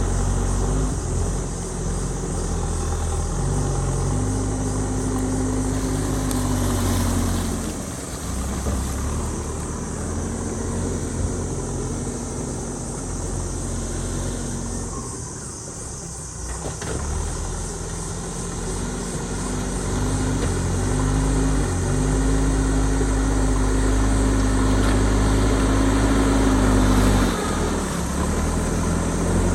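JCB backhoe loader's diesel engine running under changing load, its note holding steady and then stepping up and down. It eases off briefly about eight seconds in, again for a couple of seconds around the middle, and near the end.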